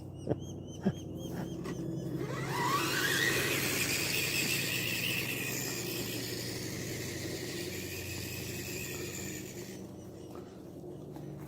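Tamiya TXT-2 RC monster truck's electric motor and gears whining, rising in pitch as it speeds up, then holding a steady high whine for several seconds before cutting off.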